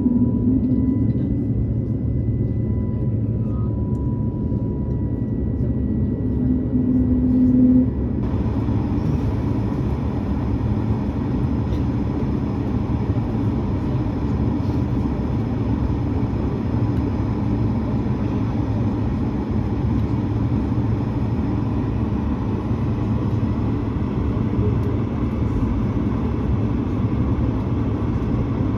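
Cabin noise inside an Airbus A220-300 taxiing: a steady low rumble of its geared turbofan engines and rolling landing gear, with a faint steady whine. About eight seconds in, a wider hiss comes in suddenly.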